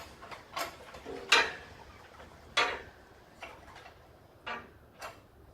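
Tools and metal parts clicking and knocking as an engine is worked out of a car: about six sharp, separate knocks at uneven intervals, the loudest about a second and a half in.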